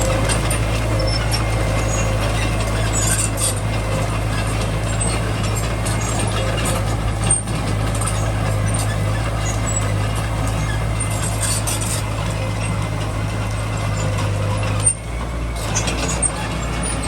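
Small bulldozer's diesel engine running steadily under load, with scattered light clicks and crackles over it.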